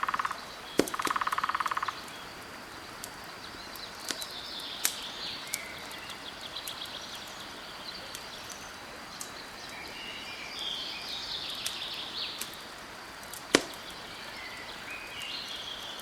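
Campfire crackling with scattered sharp pops, the loudest a little past two-thirds of the way through, over a steady rush of flowing water. Birds chirp at intervals, and a short rapid trill sounds about a second in.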